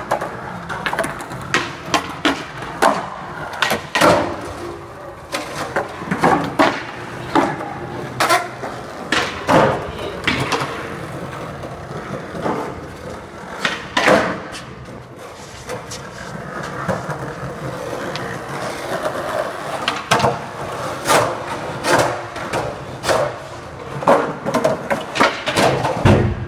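Skateboards rolling on a hard surface, with many sharp wooden clacks of tails popping and boards landing or slapping down, irregularly spaced, with a quieter spell of plain rolling partway through.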